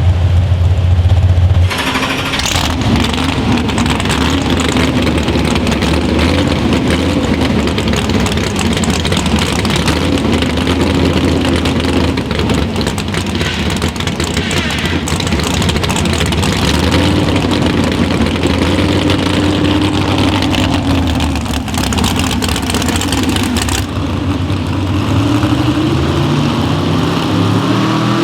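Competition pulling vehicle's engine running hard under load on a sled pull, loud and rough with a wavering pitch, from about two seconds in. It eases off near the end, then a rising rev begins.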